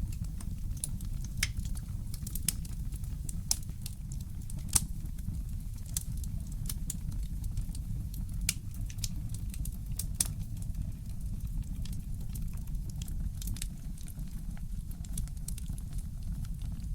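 Fireplace crackling: irregular sharp pops and snaps, several each second and one louder near the middle, over a steady low rumble.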